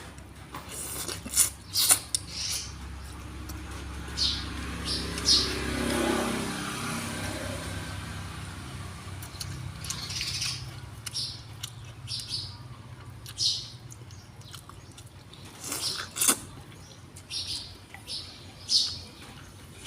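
A bird chirping in short high calls, often two or three in quick succession, with a few sharp clicks between them. A low rumble swells and fades around the middle.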